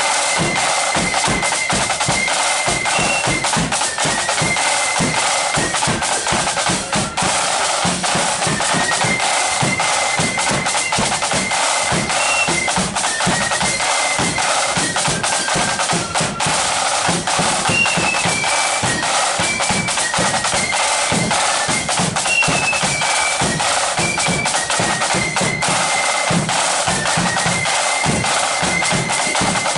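Marching flute band playing a march: a high flute melody over steady snare and bass drums.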